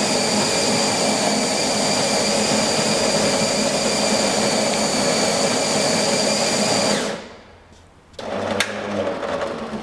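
Built-in bean grinder of a bean-to-cup espresso machine grinding beans with a loud, steady whir. It cuts off about seven seconds in. About a second later a quieter machine sound starts, with a sharp click near the end.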